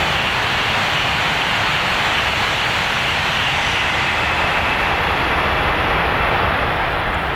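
Tohoku Shinkansen train passing through a station at high speed: a steady, loud rush of air and wheel noise that starts to fade near the end as the train goes by.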